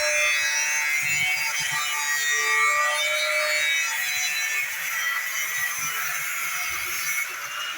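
Continuous rasping, saw-like scraping of a tool working a material, over background music with held notes in the first few seconds.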